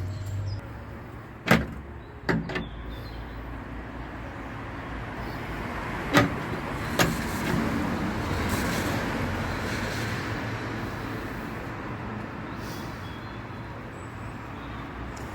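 A few sharp metallic knocks and clanks, twice in quick pairs, as the spare-wheel cradle under a Citroen Berlingo van is wound back up with the wheel brace. Over them is a steady rush of passing road traffic that swells in the middle and eases again.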